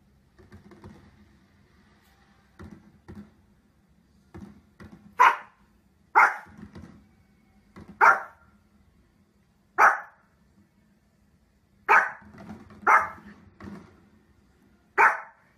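A dog barking in single loud barks, one to two seconds apart, seven barks from about five seconds in. A few softer short sounds come before them.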